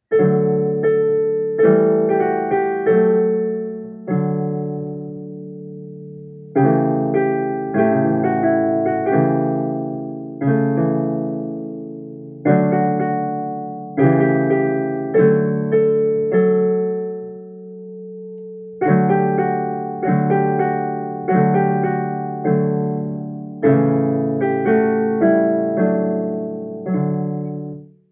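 Piano playing a short piece in chordal phrases, each struck note ringing and fading; it begins out of silence and stops at the end.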